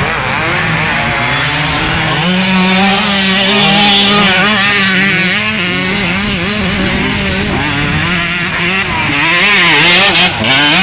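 Several motocross bikes racing, their engines revving up and down and overlapping, with one steadier engine note underneath.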